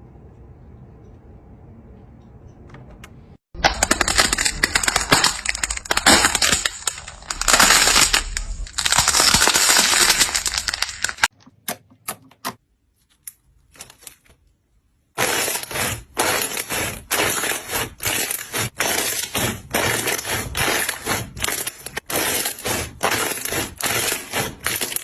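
Loud crunching and crackling of something brittle being crushed or cut. It starts a few seconds in and runs almost without a break for about seven seconds, then drops to a few scattered clicks. It then becomes a run of short, sharp crunches about two a second.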